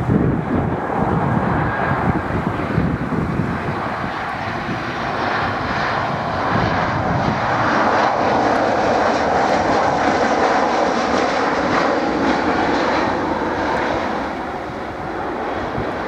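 Jet engine noise from a Boeing 737-800's CFM56 turbofans as the airliner lands, a dense roar that swells to its loudest about halfway through and then eases off.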